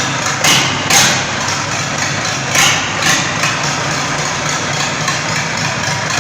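Rebuilt engine running during break-in, a steady mechanical run with several sharp knocks in the first three seconds and light regular ticking after that.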